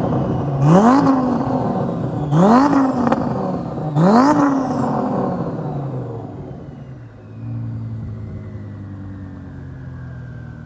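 Twin-turbo Lamborghini Huracán's V10 accelerating hard. The engine note climbs and drops back sharply at each quick upshift, four times in a row. It then dies away, and a steadier, lower engine note comes in about seven seconds in.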